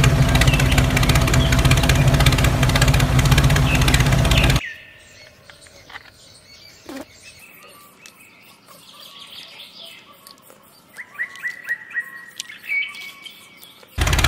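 A tractor engine running steadily at idle, which cuts off abruptly about four and a half seconds in. Then birds chirping quietly, with a run of short repeated chirps near the end.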